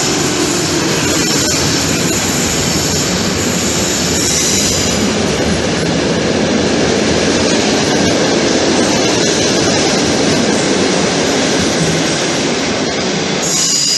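Train running on the rails at close range, a steady loud rumble of wheels and cars, with brief high wheel squeals about four seconds in and again near the end.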